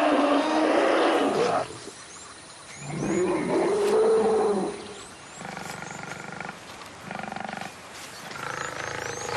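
Lions growling and snarling in a series of calls: a long loud one, an arching one a few seconds in, then two shorter rasping ones. Small birds chirp faintly throughout.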